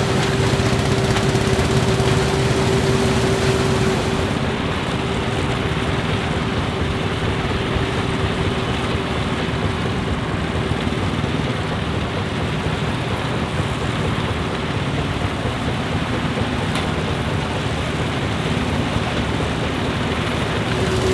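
Claas Huckepack combine harvester running and threshing wheat, its engines and threshing works giving a steady mechanical din with a constant hum through it.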